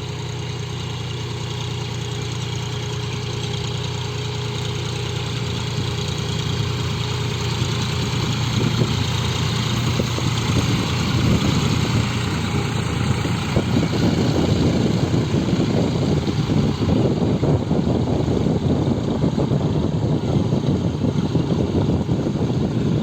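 Tractor engine running, steady at first, then louder and rougher from about ten seconds in as the tractor is driven.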